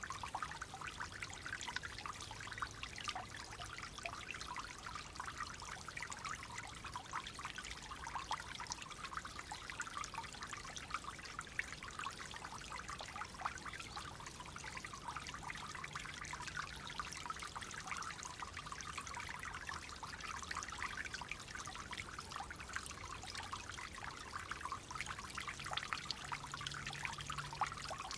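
Clear water flowing and trickling steadily over stones, a continuous babbling splash with fine rapid flicker.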